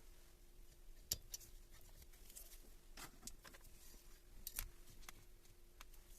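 Faint scattered clicks and light taps of small tools and parts being handled, over a steady low hum. The two loudest clicks come about a second in and around four and a half seconds in.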